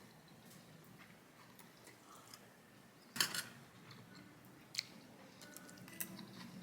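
Quiet eating sounds: a short burst of crackling about three seconds in, then two single sharp clicks.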